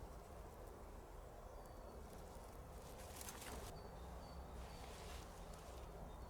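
Quiet forest ambience under a steady low rumble, with a few short, faint, high bird chirps and a brief rustle about three seconds in.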